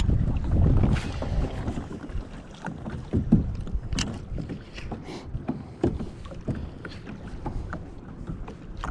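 Wind buffeting the microphone for about the first second and a half, then water lapping and splashing with small scattered knocks around a kayak.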